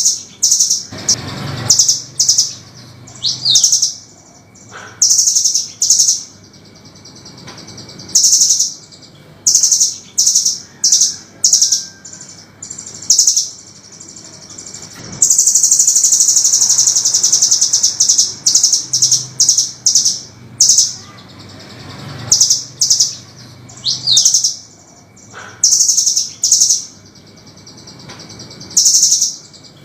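Velvet-fronted nuthatch (rambatan) calling: sharp, high chirps in quick groups, with a long, rapid trill about halfway through.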